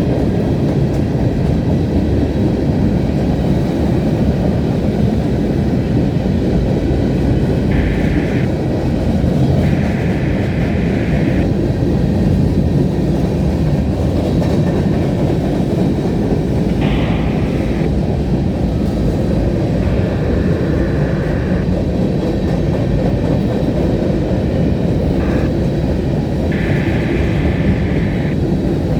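Freight train cars rolling past close by: a steady, loud rumble of wheels on rail, with brief higher-pitched wheel squeals now and then.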